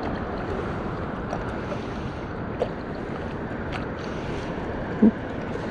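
Steady wash of lake water and wind noise on the microphone as a small pontoon boat moves along, with a few faint clicks and a short pitched sound about five seconds in.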